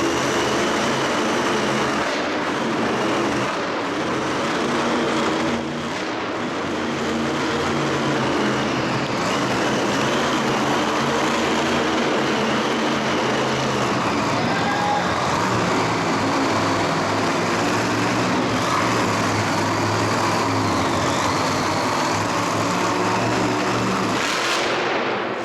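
Loud engines running steadily in a Monster Jam stadium, with a brief dip about five and a half seconds in.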